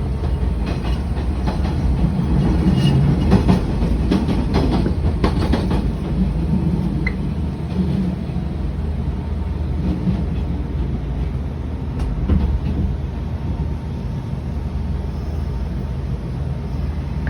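Sanyo Electric Railway train running with a steady low rumble, its wheels clicking over rail joints through the first six seconds before the sound settles into a smoother, slightly quieter rumble.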